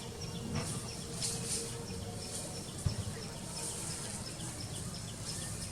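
Short high chirps repeating about three times a second over a steady low background. A single soft knock comes about three seconds in.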